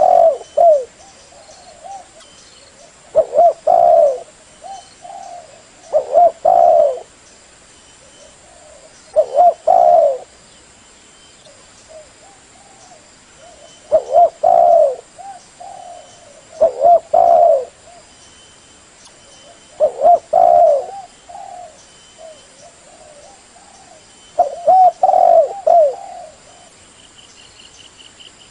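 Spotted dove cooing: short coo phrases repeated about every three seconds, about nine in all, with softer coos in between.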